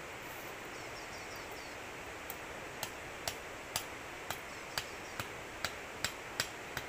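A regular series of sharp knocks, about two a second, starting a little over two seconds in, over a steady hiss of background noise.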